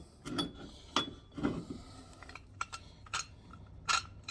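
Metal tools and parts clinking and clicking against each other, a handful of sharp separate knocks spread out over a few seconds, as a press is fitted to a car's upper control arm to push out its bushings.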